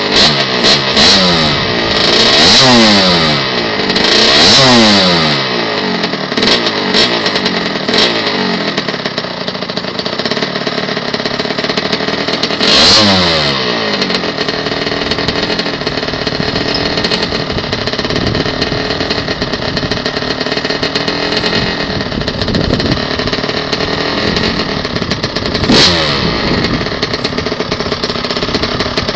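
Kawasaki KX100 two-stroke dirt bike engine with an FMF Gold Series pipe and Powercore 2 silencer, running and revved in several short throttle blips in the first few seconds and once more about halfway through, otherwise idling.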